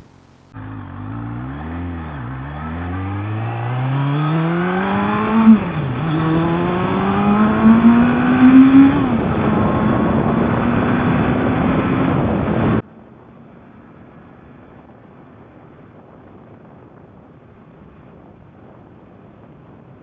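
Suzuki Bandit 1200S inline-four motorcycle engine accelerating hard, its pitch climbing through the revs. Its pitch drops at two upshifts, about 5.5 and 9 seconds in, then holds steady at speed. The engine sound cuts off abruptly near 13 seconds, leaving faint, even wind and road noise.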